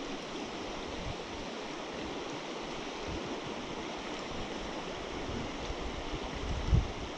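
Steady rushing of a flowing stream, with a short gust of wind buffeting the microphone near the end.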